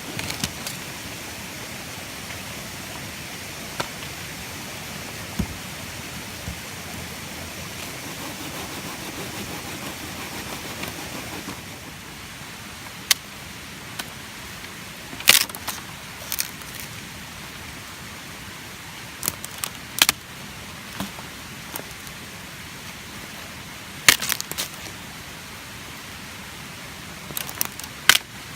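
A steady outdoor hiss, like running water, which eases a little partway through. Over it come scattered sharp clicks and clinks, several in quick clusters in the second half, as small hard objects are handled.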